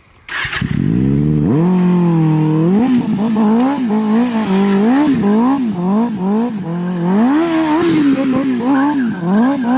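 Kawasaki ZX-10R inline-four sport bike engine starting up, catching under a second in, then revved over and over with quick throttle blips that swing the pitch up and down about once or twice a second.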